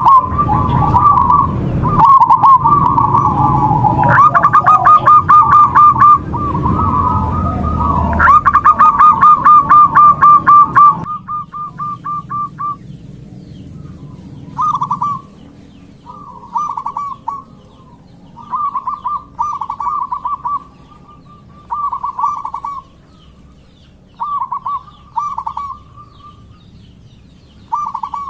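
Zebra doves (perkutut) cooing in rapid staccato trills of evenly spaced coos, over a low rumble. After about eleven seconds the rumble drops away and the cooing turns quieter, coming in short phrases every second or two.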